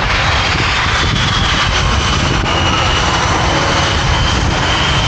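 Jet engines of the Blue Angels' F/A-18 Super Hornets running on the ground before takeoff: a loud, steady rush with a high whine over it.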